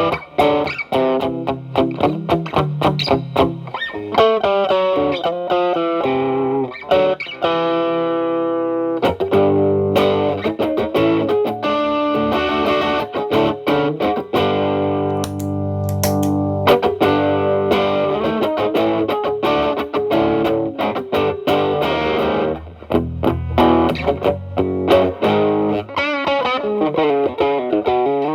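Telecaster played through an Xotic BB overdrive pedal into a Marshall Valvestate amp's clean channel, with the drive cleaned up to a light, slightly dirty tone. Picked single-note lines and chords, with a couple of long held notes, one about a third of the way in and one near the middle.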